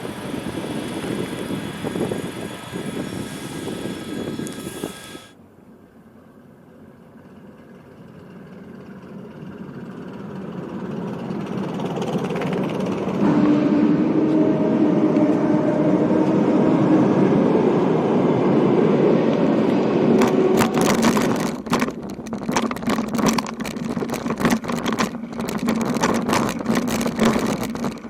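A vehicle approaching and passing close by: after a sudden cut, its noise swells over several seconds into a loud, steady drone with a low hum, then breaks into a rapid, irregular clatter.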